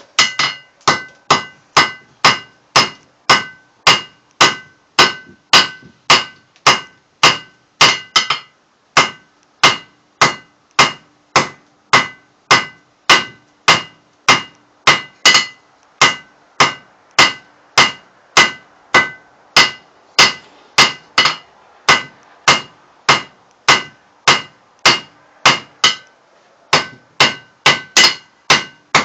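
Hammer blows on hot steel over a blacksmith's anvil of about 110 pounds, forging a drive hook: steady ringing strikes, about two to three a second, with a short break about eight seconds in and another near the end.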